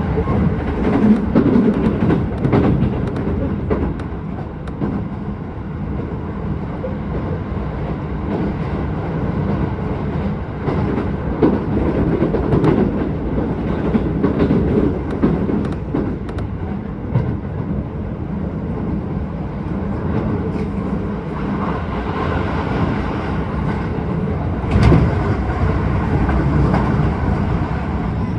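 Keisei 3000-series electric train running at speed, heard from inside the car: a steady rumble of wheels on rails with the clickety-clack of rail joints, and a louder jolt about 25 seconds in.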